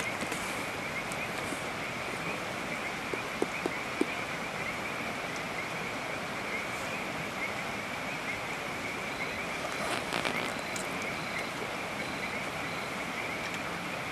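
Steady rain with a chorus of frogs calling in a constant high trill, and a few faint taps and drips.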